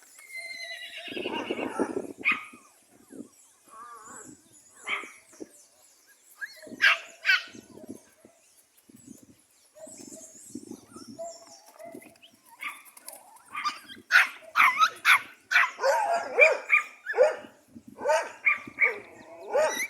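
A dog barking in scattered barks, which come faster and louder about two-thirds of the way through, mixed with some higher bending yelps.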